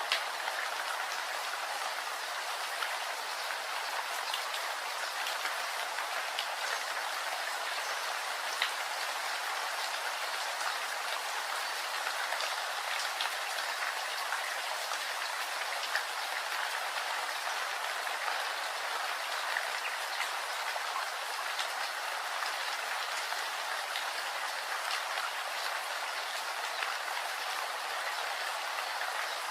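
Steady rain falling, a constant hiss with scattered individual drops ticking sharply through it.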